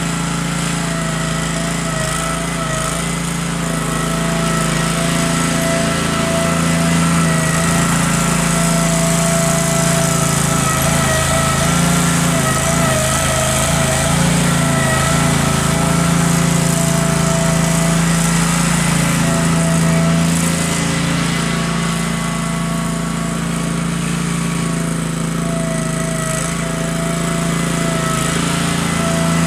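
Case 446 garden tractor's engine running steadily while it pushes snow with its front blade, its pitch wavering slightly as the load changes.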